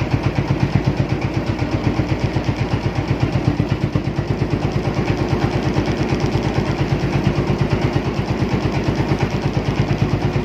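Boat engine running steadily, with a fast, even chugging beat.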